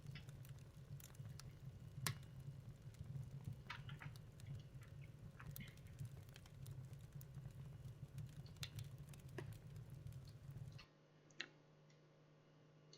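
Faint crackling-fire sound effect: irregular small pops and crackles of burning wood over a low steady rumble, cutting off abruptly about eleven seconds in.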